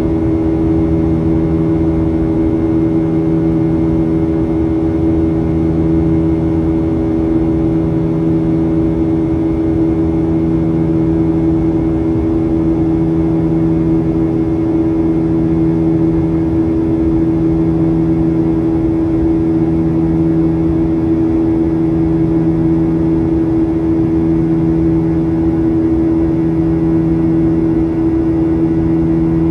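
Steady, unchanging drone inside the cabin of a Boeing 737-800 in flight: noise from its CFM56-7B engines and the airflow, with a few fixed low hum tones.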